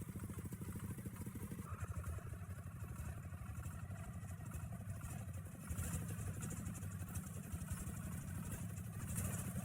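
Engine of a small logging truck running at low speed as it manoeuvres in reverse, a steady low pulsing chug.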